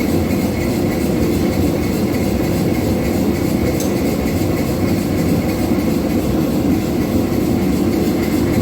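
Forge running with a steady, low, rushing noise while a piece of steel heats in it.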